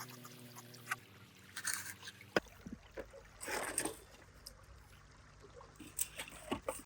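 Small splashes and trickling water, with scattered clicks and one louder splash near the middle. Background music cuts off about a second in.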